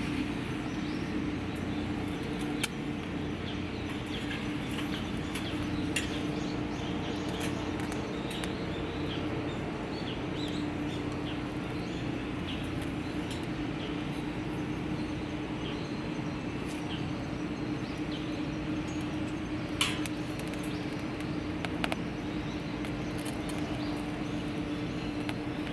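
Wood fire crackling, with many small scattered ticks and a few louder snaps, over a steady low hum.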